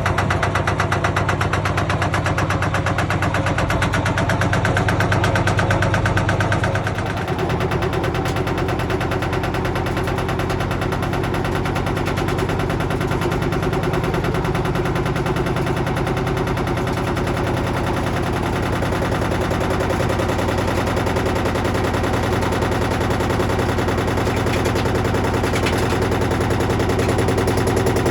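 Beko WTG941B2W washing machine spinning hard with a motor loose in its drum, the load banging in a fast, continuous machine-gun-like rattle. A low hum drops away about seven seconds in, and the banging carries on without a break.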